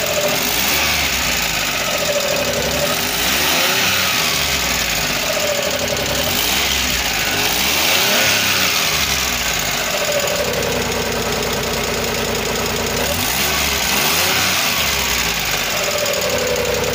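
Multicab mini-truck engine running and being revved up and back down several times to test its power after a hard-starting problem; the engine runs, but the mechanic finds that cylinder number 3 still has a problem.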